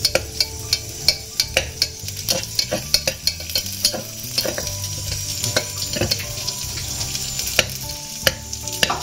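Cashews and raisins sizzling as they fry in oil in an aluminium pressure cooker, while a flat metal spatula stirs them, scraping and clicking against the pot again and again.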